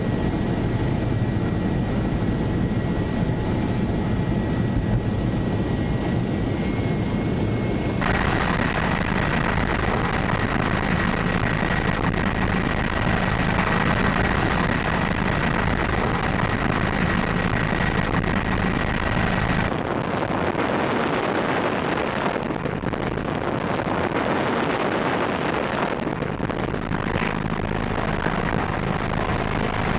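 Bell OH-58 Kiowa Warrior helicopter in flight: steady rotor and turbine noise with a thin, high whine. The sound changes abruptly about eight seconds in and again near twenty seconds.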